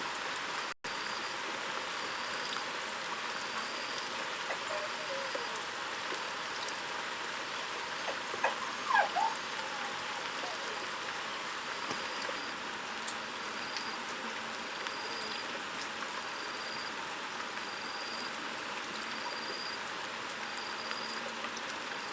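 Steady water noise, with a few short chirps about eight to nine seconds in and a faint high tone pulsing on and off.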